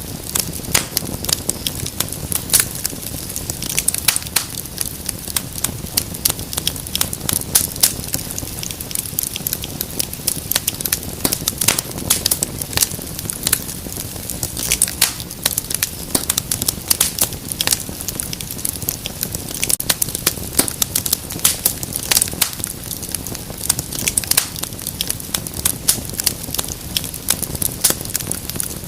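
Wood fire crackling, with many irregular sharp pops and snaps over a low, steady hiss.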